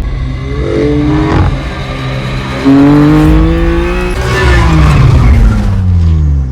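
BMW M2 CS's twin-turbocharged 3.0-litre inline-six revving: a short rise about a second in, then a louder pull from just under three seconds climbing in pitch, and the revs falling away over the last two seconds.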